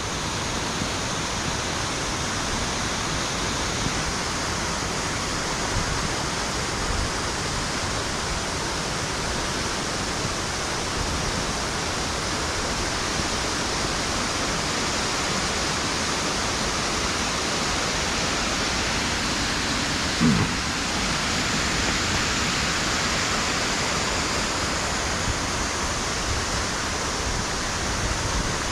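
Steady rush of a waterfall running powerfully after heavy rain, an even roar of water with no break. There is one brief low sound about twenty seconds in.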